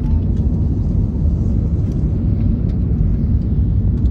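Airbus A380 four-engine jet airliner on its takeoff run, a steady, loud low rumble.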